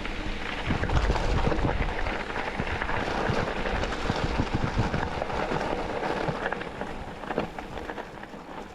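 Road noise from a moving vehicle: a rushing, crackling noise of tyres on the road with rumble and wind buffeting on the microphone. It dies down over the last couple of seconds as the vehicle slows.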